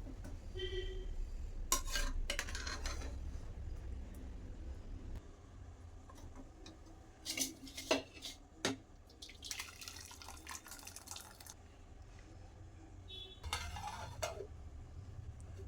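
Dishes and cutlery clinking and clattering a few times, with a short run of water about ten seconds in, over a steady low hum.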